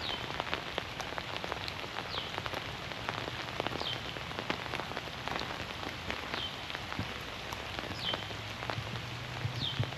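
Steady rain falling through the forest, with drips ticking from the trees. A high, falling call repeats about six times, roughly every two seconds.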